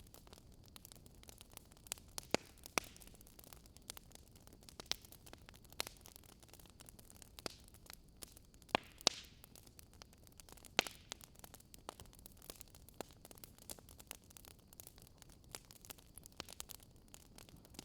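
Wood fire crackling and popping in irregular sharp snaps, a few louder pops among many small ones, over a faint steady hiss.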